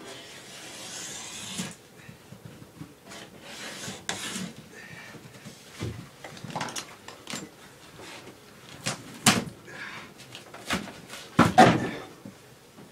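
Irregular knocks, clatter and scraping of old linoleum flooring being pried up and torn out, with a rustling scrape in the first second or two and the loudest bangs about nine and eleven and a half seconds in.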